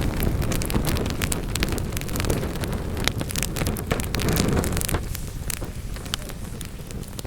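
Wood fire burning in a fireplace: a steady low rush of flames with many sharp crackles and pops of burning wood, the rush easing a little after about five seconds.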